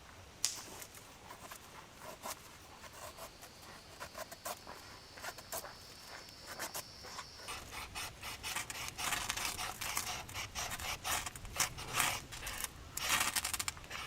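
Hand-made scraping and rasping: scattered scrapes at first, then quick repeated strokes that grow denser and louder in the second half.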